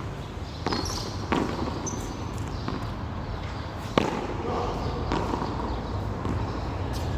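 Ball striking hands, the frontón wall and the court during a hand-frontón rally: a handful of sharp smacks at uneven intervals, the loudest about four seconds in.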